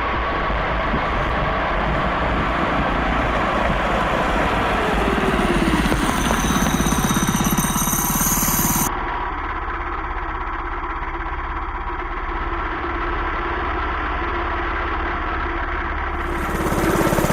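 Go-kart's small gasoline engine running, its pitch falling between about four and six seconds in as it slows. The sound turns duller abruptly about nine seconds in and brightens again near the end.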